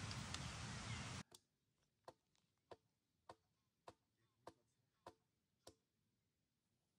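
Wood knocking on wood as a stake is driven into the ground: eight sharp, evenly spaced knocks, a little under two a second. Before them a steady outdoor hiss cuts off abruptly about a second in.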